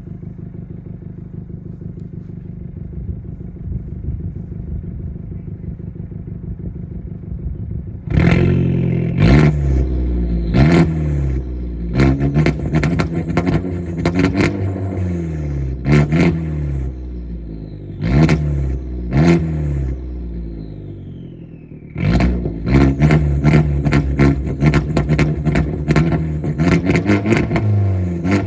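Straight-piped Dodge Dart exhaust idling steadily, then revved in repeated sharp throttle blips that rise and fall back, about eight seconds in. From about twenty-two seconds in the blips come in a quick run, one after another.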